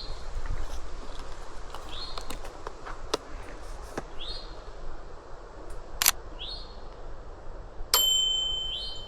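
A songbird repeating a short, sharp call about every two seconds. Several sharp clicks sound in between, and the last one, near the end, is followed by a brief ringing tone.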